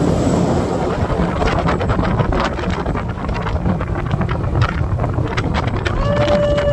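Wind buffeting the microphone on a motorboat running at speed, over the steady rumble of the boat's engine and the hull on the water, with frequent short crackles of gusts.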